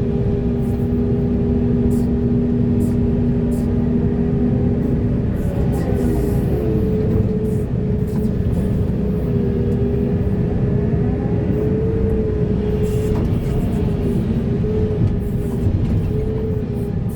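Heavy excavator's diesel engine running under load, a steady low rumble with a whine over it that slides up and down at times as the hydraulics work.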